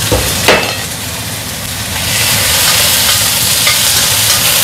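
Squid sizzling as it hits hot oil in a stainless steel wok, the sizzle growing louder from about two seconds in. A metal spatula knocks against the wok about half a second in, over a steady low hum.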